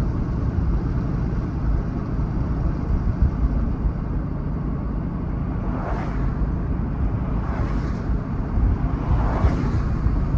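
Steady low road and engine rumble heard from inside a moving vehicle. In the second half there are three short swishes, roughly every couple of seconds.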